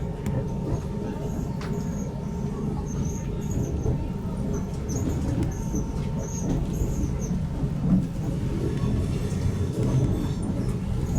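Railway station ambience: a steady low rumble of trains and concourse noise, with short high squeaks recurring throughout.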